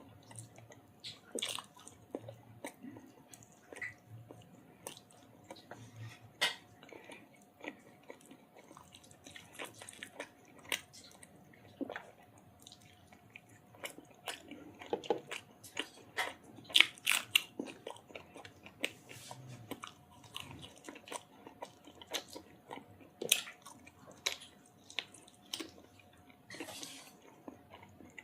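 Close-miked eating of chicken curry with roti and rice: chewing, biting and wet mouth smacks in an irregular run of short clicks, busiest about halfway through.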